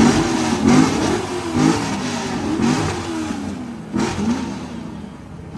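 Two Corvette V8 exhausts, a C4 and a C7 with Kooks headers, revved at the same time: a run of throttle blips whose pitch climbs and falls, loudest in the first second and dying down, with one last short blip about four seconds in.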